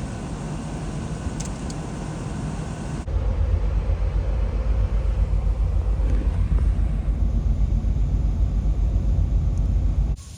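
Low, steady rumble of a vehicle driving, with the sound changing abruptly about three seconds in and again near the end, as between clips.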